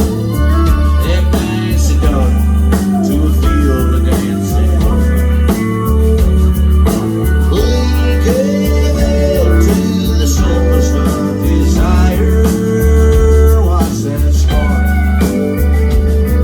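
Live country-rock band playing loudly: a guitar lead with bending notes over heavy bass and drums.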